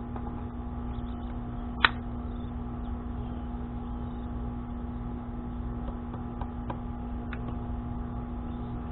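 Steady low background hum with one sharp click about two seconds in, and a few light ticks later.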